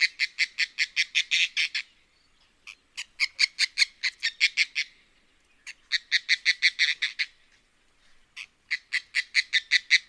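Oriental darter calling: rapid series of short clicking notes, about eight a second, in four bouts of around two seconds each with brief gaps between them.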